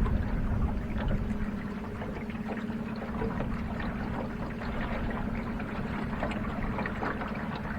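Small electric trolling motor running at a steady hum as it pushes a jon boat upriver, over a wash of water noise.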